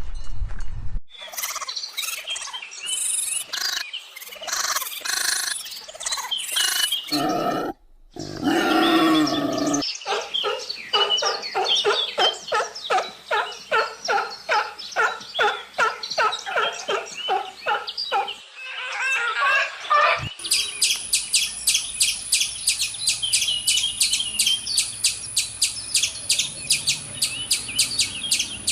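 Bird calls in several cut-together segments: varied calls first, then a run of evenly repeated calls, and from about two-thirds of the way in a fast, steady series of high chirps.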